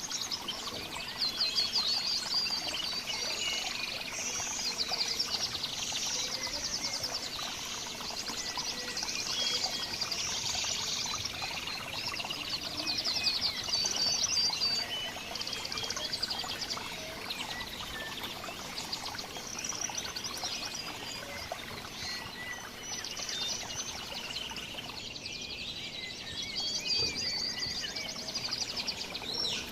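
Several small songbirds chirping and trilling over one another, rapid high trills repeating again and again, over a steady background hiss.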